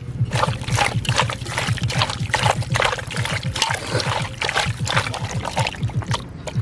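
Water splashing and trickling in irregular bursts, over background music with a steady low beat.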